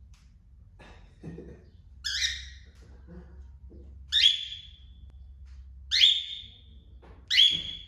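Cockatiel giving four loud contact calls, one about every two seconds, each a short rising shriek that settles on a high note. These are the calls a cockatiel makes for a companion that has gone out of sight.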